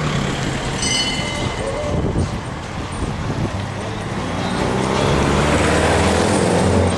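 A car engine running and getting louder over the last two seconds or so, as if the car is drawing nearer, with people's voices in the background.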